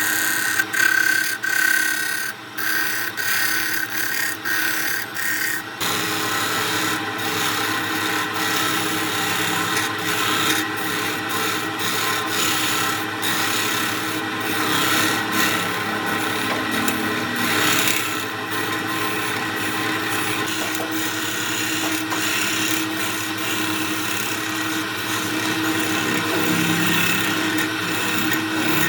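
A lathe runs with a steady hum while a tool rubs and scrapes against the spinning epoxy-resin and wood blank. The contact breaks off again and again in the first few seconds, then holds continuously.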